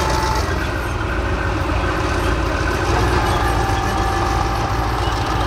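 K1 main battle tank's diesel engine running steadily: a deep, continuous rumble with a faint steady whine above it.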